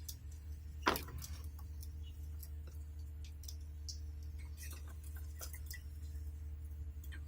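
Canaries moving about their cage and nest: scattered light clicks and taps, with one sharper knock about a second in, over a steady low hum.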